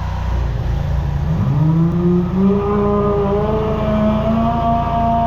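High-pressure drain jetter's engine revving up from idle about a second in, then holding at a steady higher speed as it pumps water through the jetting hose and nozzle to cut roots in the sewer line.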